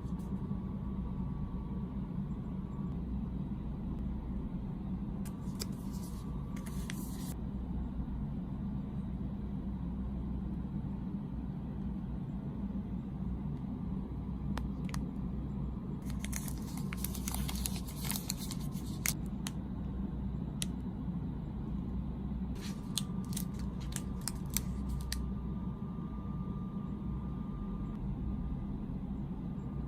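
Snack packaging being opened: scissors snipping and plastic wrapper crinkling and tearing in three short spells, over a steady low hum.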